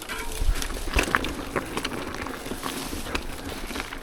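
Full-suspension mountain bike rolling down a rough dirt and rock trail: steady tyre noise with a run of clicks and rattles from the bike, and two heavy thumps about half a second and a second in as it hits bumps.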